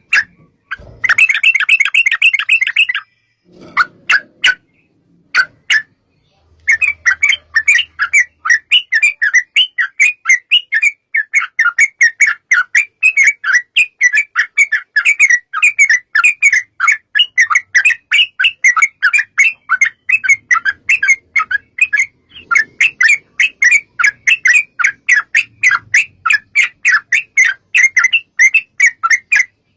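Yellow-vented bulbul (trucukan) calling in rapid runs of short chattering notes: a dense burst about a second in, then a long unbroken run of quick notes from about seven seconds on.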